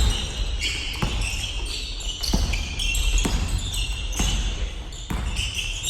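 Basketball bouncing on a gym floor during play, about five sharp bounces roughly a second apart.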